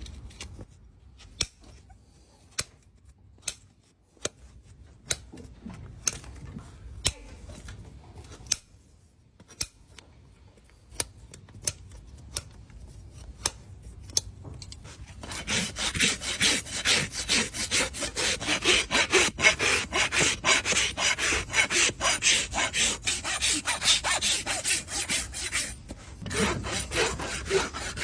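Horse hoof trimming. For about the first half there are sharp single clicks, roughly one a second, from the trimming tools on the hoof. Then a hoof rasp files the hoof in quick, continuous scraping strokes, which are the loudest part.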